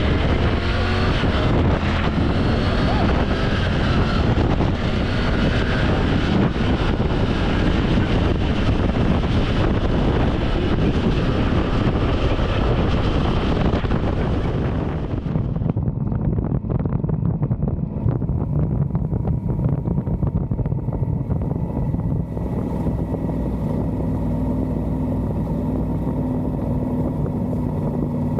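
Motorcycle on the move with loud wind rush on the microphone. About halfway through, the wind noise drops away as the bike slows, leaving the engine running steadily at low revs.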